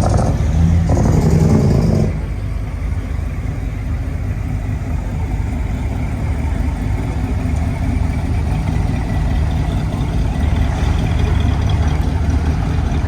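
Car engine running with a low rumble, louder and fuller for the first two seconds, then settling into a steadier drone.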